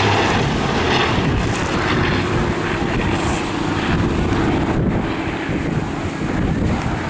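Hawker Fury's Bristol Centaurus radial engine running steadily as the aircraft flies its display, mixed with wind buffeting the microphone.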